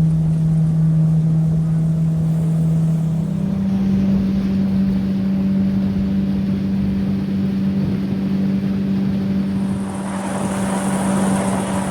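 A boat motor running steadily under way. Its pitch steps up about three and a half seconds in as it speeds up, and a rush of wind and water noise grows louder near the end.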